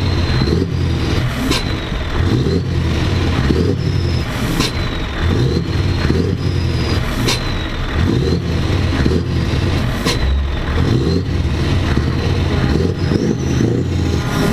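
Heavy truck engines running with a dense, steady low rumble and some revving, with short sharp clicks every few seconds.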